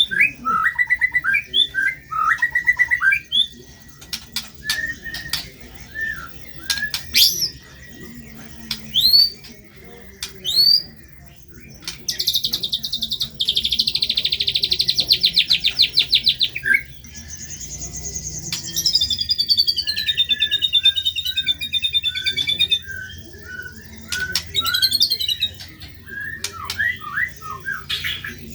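White-rumped shama (murai batu) singing a varied, rough-toned song: sharp rising whistles, a long buzzing rapid-fire trill about twelve seconds in, then a falling cascade of quick notes and runs of chirps.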